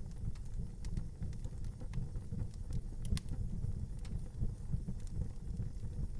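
Fire burning in an outdoor fireplace: a steady low rumble with scattered small crackles and a sharper pop about three seconds in.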